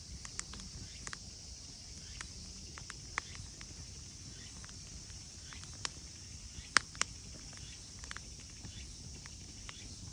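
Quiet outdoor ambience: a faint, steady high-pitched chirring, as of night insects, with scattered sharp clicks and snaps. The loudest is a close pair of snaps about two-thirds of the way through.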